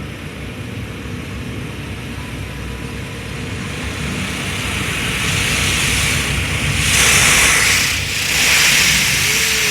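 Automatic car wash machinery working over the car, heard from inside the cabin: a steady low rumble, with a loud hiss that builds from about halfway through and swells twice near the end.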